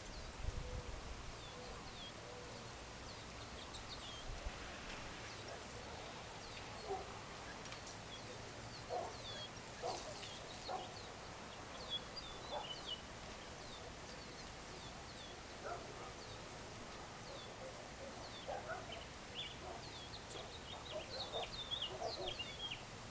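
Birds chirping and calling: many short, high chirps all through, with short lower calls scattered among them, over a steady hiss of background noise.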